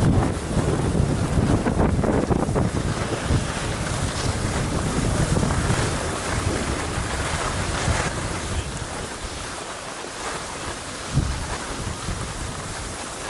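Wind buffeting the microphone, a rough rushing noise that is strongest in the first half and eases off toward the end, with a short knock about eleven seconds in.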